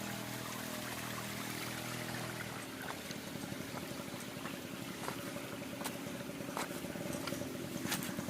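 Water of a small waterfall running over a rock slab, a steady rushing trickle. A low steady hum sits under it for the first couple of seconds, and faint scattered taps come in after that.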